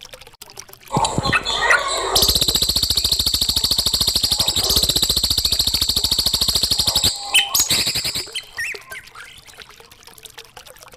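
Recorded songbird calls: short chirps, then a fast, evenly pulsed rattling trill for about five seconds, then a few more chirps.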